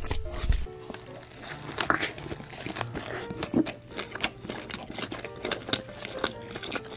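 Close-miked chewing and biting of a cheeseburger, with many sharp wet clicks and crackles, over light background music with a simple melody. A deep low rumble stops less than a second in.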